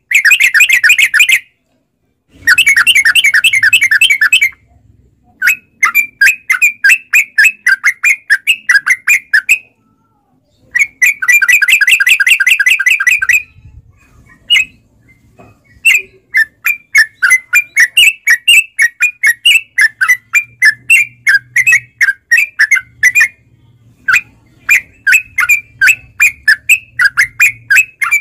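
Yellow-vented bulbul (trucukan) singing: three long rolling trills of two to three seconds each, alternating with runs of quick separate chirps, several a second.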